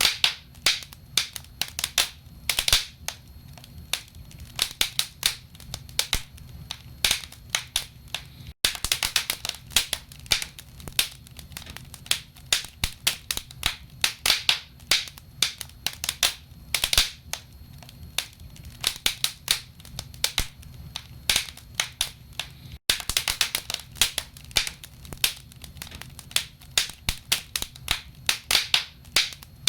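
Wood fire burning in a fireplace: logs crackling with irregular sharp pops and snaps, several a second, over a low steady rumble of the flames. The sound cuts out for an instant twice.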